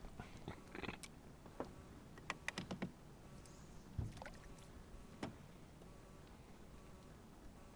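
Scattered light clicks and knocks of gear being handled in a small fishing boat, with a quick run of clicks a couple of seconds in and one heavier knock against the hull about four seconds in.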